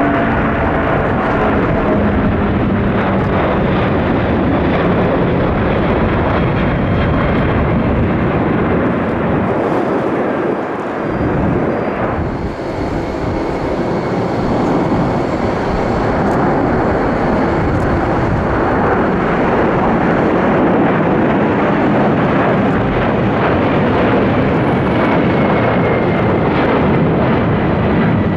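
Jet airliner engines at close range: a loud, continuous roar with faint whines sliding in pitch, easing briefly about eleven seconds in before building again.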